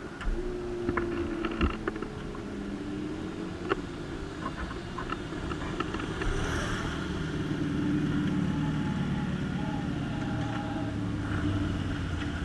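Motorcycle engines running at low speed: a steady hum that drifts slowly in pitch, with a few faint clicks.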